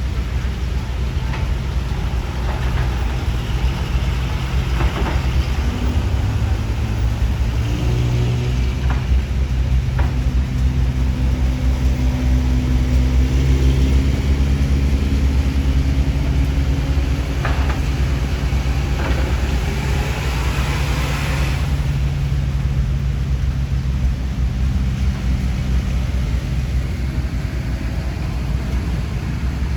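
Motorcycle engine running while riding, with road and wind noise. About six seconds in, the engine pitch climbs, then holds steady.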